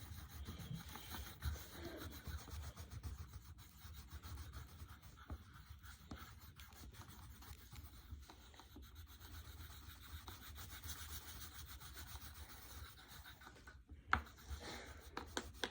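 Coloured pencil scratching on paper with quick back-and-forth strokes, an area being coloured in.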